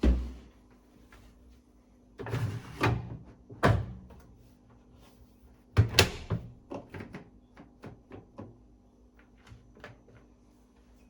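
A series of household knocks and thuds: a loud knock at the start, a few more louder ones in the first six seconds, then lighter clicks and taps.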